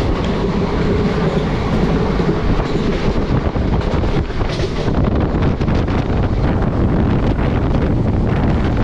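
Passenger train running, heard from on board: a steady heavy rumble with a rapid, irregular clatter of wheels and coaches.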